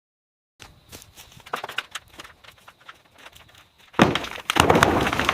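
Scattered knocks and taps of hard material being handled, then a loud, rough clatter beginning about four seconds in.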